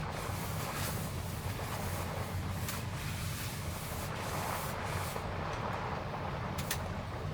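Typhoon wind and heavy rain beating on a small truck camper: a steady low rumble under a hiss of rain, with several sharp spatters of water.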